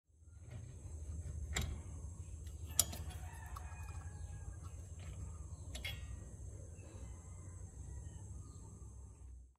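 Low steady background rumble, broken by three sharp clicks spread across the first six seconds. A faint bird call with a curving pitch runs from about three to five seconds in.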